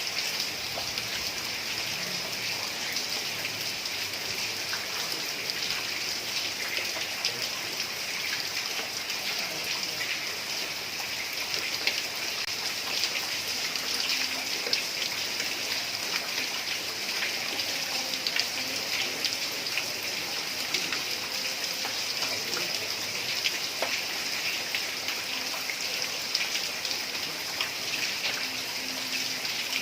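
Heavy rain falling on a tiled roof: a steady, dense patter with many individual drops ticking on the tiles.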